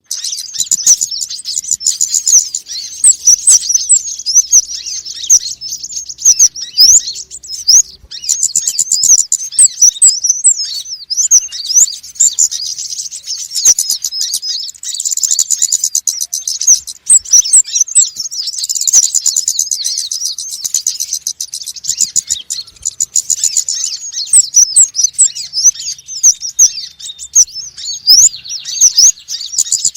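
Sunbirds (konin and wulung) calling agitatedly, a dense chorus of rapid, high, sharp chirps with no pause, the kind of noisy sunbird calling used as a lure for trapping small birds.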